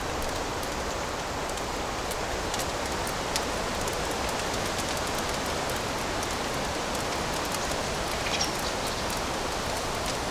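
Fireplace fire burning with a steady hiss and scattered sharp crackles and pops, one brighter crackle a little past the middle.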